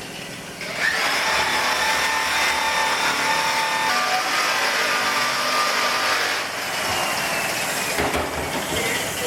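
A power tool grinding and polishing stainless steel bolts, a steady machine whine with metal-on-abrasive noise that starts about a second in and changes pitch a couple of times as the work shifts.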